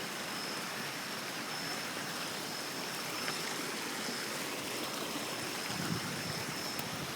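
Flood-swollen creek rushing steadily, its fast current churning along, with a thin steady high whine above it.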